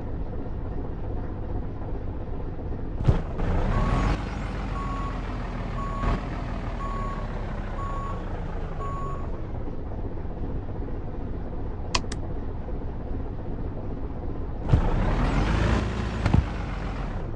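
Truck engine running with a steady low rumble. A short beep repeats about once a second for about five seconds. Two louder rushes with a sweeping engine pitch come a few seconds in and near the end.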